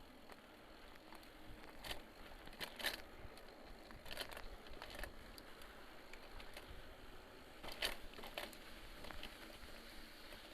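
Mountain bike on a dirt forest trail: faint crackling with scattered sharp clicks and rattles, the loudest about two, three and eight seconds in.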